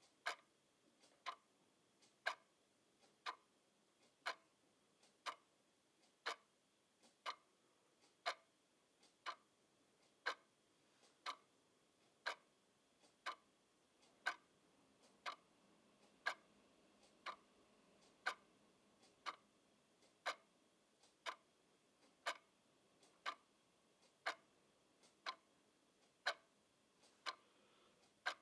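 Clock ticking steadily, about one tick a second, the ticks alternating slightly louder and softer in a tick-tock pattern.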